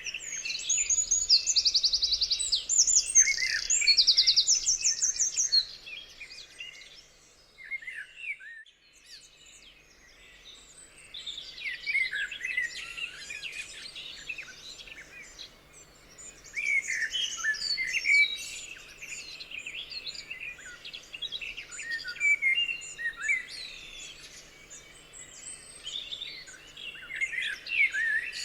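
Several songbirds singing and chirping together, many overlapping short phrases. A loud, very fast trill runs through the first few seconds, then the chorus drops to a brief lull before the chirping builds again in swells.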